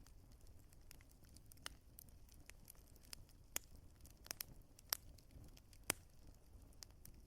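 Wood fire crackling: sharp, irregular pops and snaps over a soft low rumble, the loudest pops about five and six seconds in.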